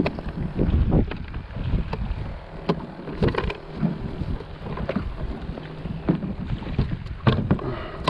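Wind buffeting the microphone on a kayak out on open water, a steady low rumble broken by irregular knocks from the boat and gear.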